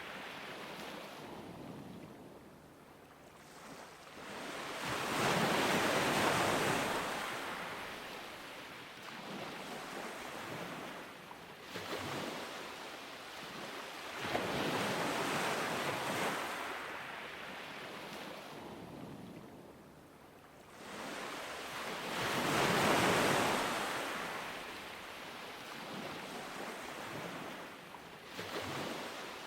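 Ocean surf on a beach: waves breaking and washing up the sand in slow rushing surges. The biggest surges come about every eight or nine seconds, with smaller ones between.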